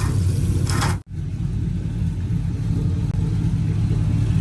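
Motor vehicle engine running with a steady low rumble. The sound cuts out abruptly for a split second about a second in, then resumes.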